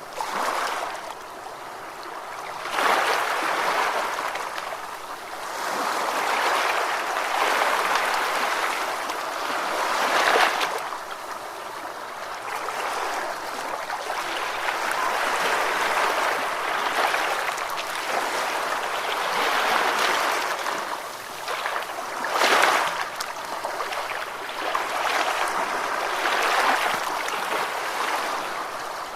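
Ocean waves washing in: a continuous hiss of surf that swells and ebbs every few seconds, with a few sharper surges of breaking water.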